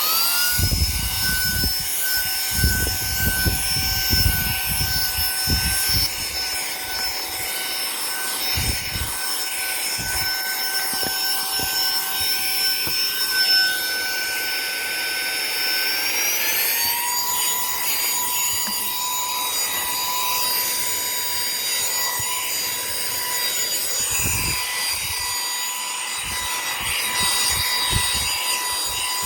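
Saker mini cordless handheld vacuum running with a steady high-pitched motor whine while its floor attachment rubs and bumps over the car floor. A little past halfway the whine rises to a higher pitch and holds there.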